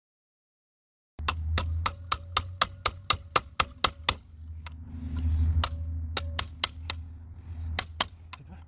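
A stuck metal part being tapped with a hammer to free it: a quick run of about a dozen ringing metallic strikes, about four a second, starting about a second in, then a few more scattered taps, over a steady low hum.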